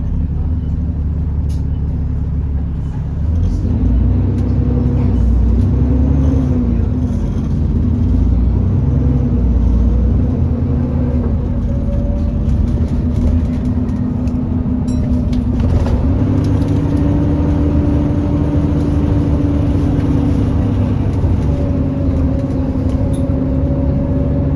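Alexander Dennis Enviro400 E40D bus running, with a loud, steady whine that drifts slightly in pitch over the engine rumble: the 'hoover' sound on a bus that is overheating.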